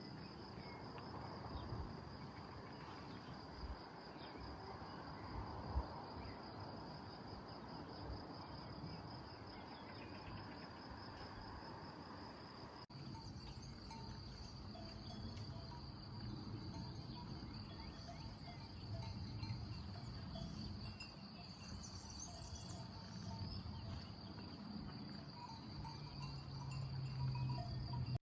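Crickets chirping in a steady, finely pulsing high trill, over a low rumble. There are a few soft knocks early on and a brief dropout about halfway.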